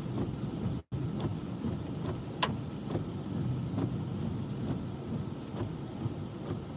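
Hail and heavy rain pelting the car's body and roof, heard from inside the cabin: a steady rumbling din with scattered sharp ticks of hailstones striking.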